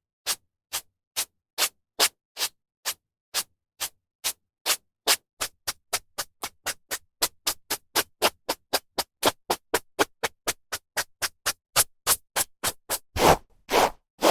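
Hairbrush strokes through hair: a run of short, dry bristle swishes, about two or three a second at first, quickening to about four a second, then a few longer, louder strokes near the end.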